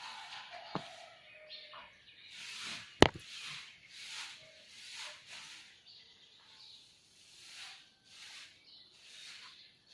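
Agitated ringneck parrot giving a run of short, harsh, hissy sounds, roughly one a second, with a single sharp click about three seconds in.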